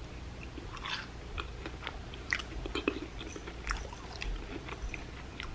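Close-up chewing of a deep-fried ham and cheese croquette coated in crushed Cheetos Puffs: irregular soft crunches of the crust and wet mouth sounds.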